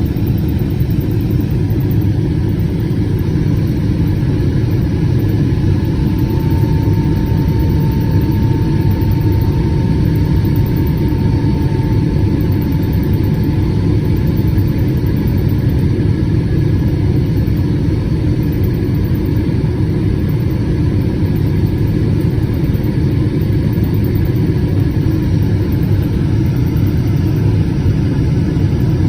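Steady, deep rumble of a Boeing 777-200ER heard from inside the cabin: its Rolls-Royce Trent 892 engines and the airflow over the fuselage, even throughout. A faint higher hum sits on top for a few seconds about a fifth of the way in.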